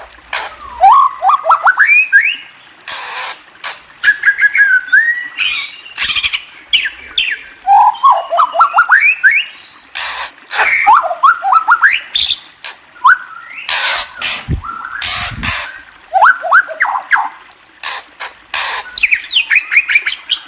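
A bird calling in bursts: runs of quick rising chirps alternating with loud, harsh squawks every second or two.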